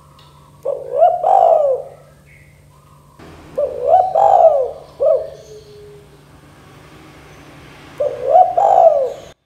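Spotted dove (tekukur) cooing: three phrases of low, rising-and-falling coo notes, a few seconds apart, over a faint steady hum.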